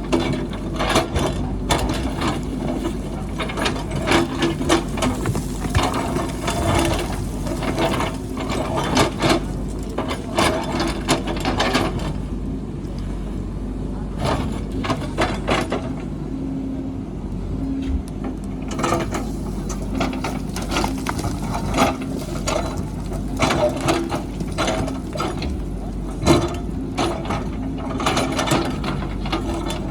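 JCB backhoe loader's diesel engine running steadily, with frequent sharp clanks and knocks of machinery working, sparser for a few seconds in the middle.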